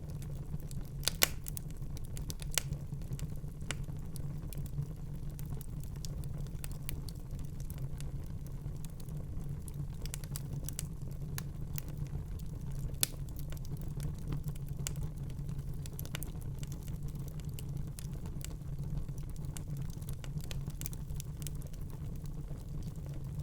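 Wood fire in a fireplace crackling: irregular sharp pops and snaps over a steady low rumble, with the loudest pops about a second in and about halfway through.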